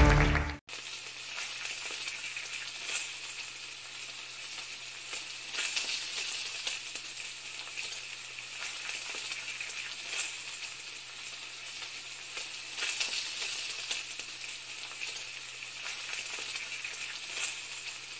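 Music and applause cut off about half a second in, giving way to a steady frying sizzle with scattered crackles, as of food frying in hot oil, over a faint low hum.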